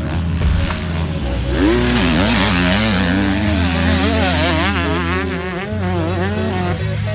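KTM 125 SX two-stroke motocross engine revving hard, its pitch swooping up and down quickly as the throttle opens and closes, with music underneath.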